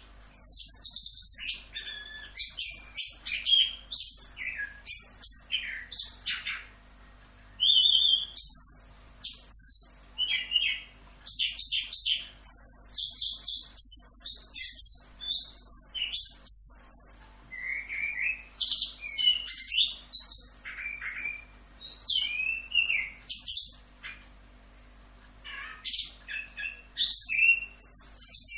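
Chestnut-capped thrush (anis kembang) singing a fast, varied run of high chirps, trills and whistled notes, in bursts of several seconds with short pauses near the start of the second third and late on.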